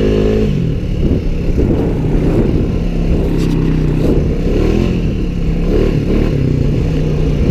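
ATV engine running under way, its revs dropping about half a second in, then easing off and picking up again a couple of times before holding steady.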